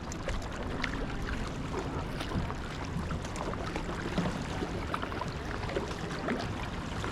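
Kayak paddles dipping into shallow water, with small irregular splashes and drips over a steady low rumble.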